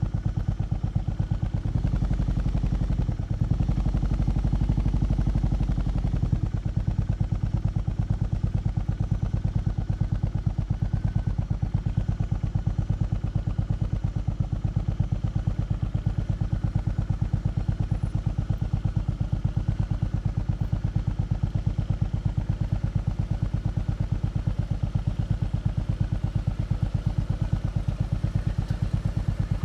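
Exhaust of a BMW R18 B's big air- and oil-cooled boxer twin idling with an even, pulsing beat. About two seconds in the note swells for a few seconds, then settles back to idle.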